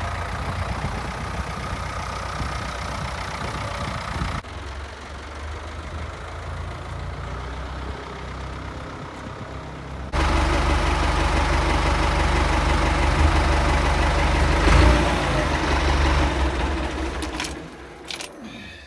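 Ford 5610 tractor's four-cylinder diesel engine running, in a few cut-together stretches, louder from about ten seconds in and fading out near the end.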